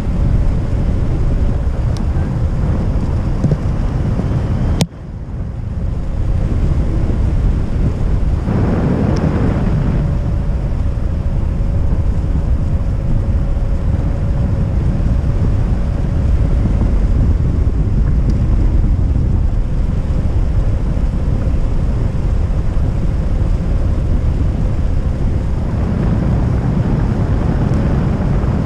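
Steady rush of wind and airflow buffeting the microphone on an aircraft gliding with its engine off. There is a sharp click about five seconds in.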